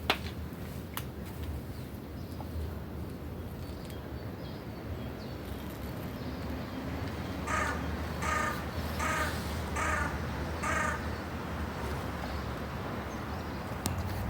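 A crow cawing five times in a row, harsh caws a little under a second apart, about halfway through. A sharp click or knock at the very start.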